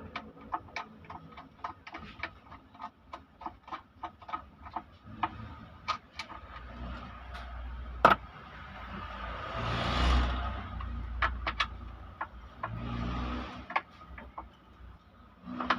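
Irregular metallic clicks and taps of hand tools working on engine parts during a teardown, with a loud sharp knock about eight seconds in and two short rushing, scraping noises near ten and thirteen seconds.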